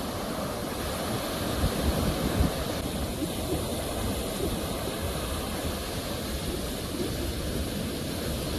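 Sea waves washing onto the shore in a steady, rumbling surf, with one louder surge about two seconds in.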